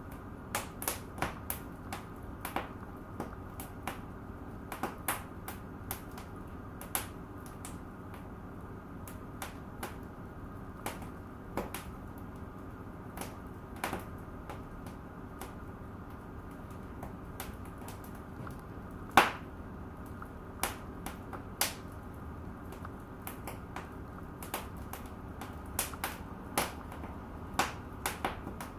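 Fire in a fireplace crackling: irregular sharp pops and snaps over a steady low hiss, with one much louder pop about two-thirds of the way through.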